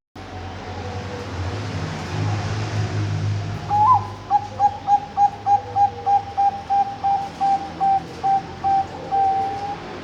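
Bangkok-type zebra dove (perkutut) singing its front voice: a rising opening note, then a quick run of short, even coos, about four a second, slowing a little and ending on a longer held note. A low rumble sits underneath in the first half.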